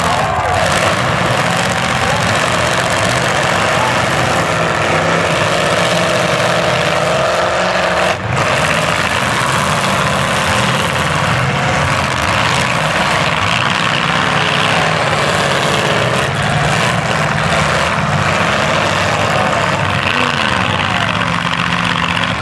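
Several demolition derby cars' engines running and revving together, a loud, continuous mix with pitch that wavers up and down as drivers rev.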